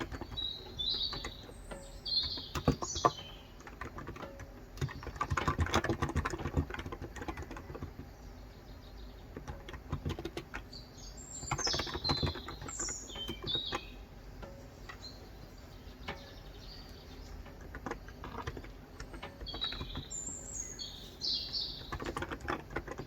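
Typing on a Cox Endeavor electro-capacitive (Topre-style) tenkeyless keyboard with 35 g switches, keystrokes coming in irregular bursts. Birds chirp over it in three short clusters of high calls: near the start, around the middle, and near the end.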